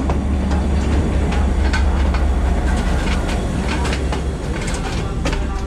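Train running at speed, a heavy steady rumble with irregular clicks and knocks of the wheels over rail joints.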